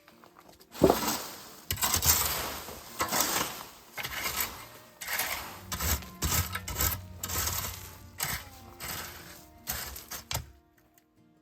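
Irregular knocks, clatter and scraping of hands-on work, several sharp hits in quick succession, quieting shortly before the end.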